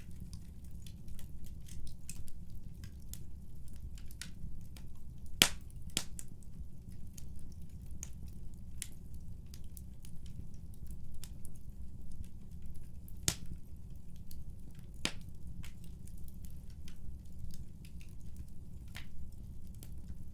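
Wood fire burning in a fireplace: a steady low rumble of the flames with scattered sharp crackles and pops. The loudest pops come about five and six seconds in, then around thirteen and fifteen seconds in.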